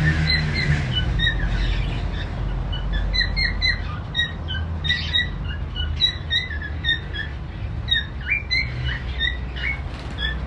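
A group of pet cockatiels and lovebirds chirping and squawking: many short, high calls in quick succession, overlapping, over a steady low rumble.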